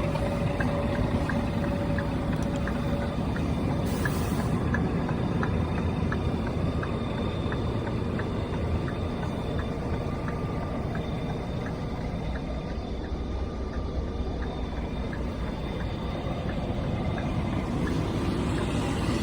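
Scania R420 tank truck running with a steady engine and road noise. A light, regular ticking about three times a second runs through it.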